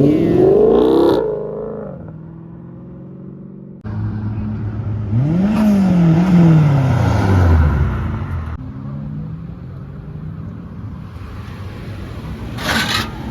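Car engine revving: its pitch climbs near the start, then after an abrupt cut a second rev rises briefly and falls away slowly over a couple of seconds before the sound drops to a steadier hum.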